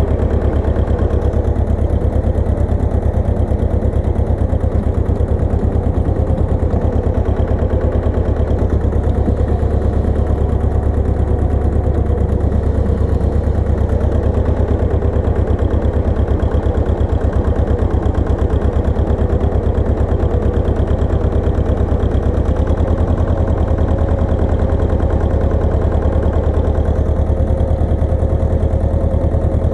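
Pasquali 980 EX tractor engine running steadily with a fast, even pulse, the note shifting slightly about twenty-two seconds in.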